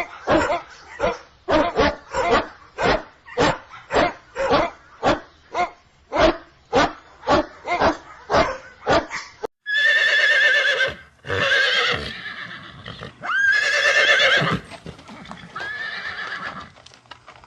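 A dog barking over and over, about two barks a second. About ten seconds in, the barking gives way to a horse whinnying several times in long, wavering neighs.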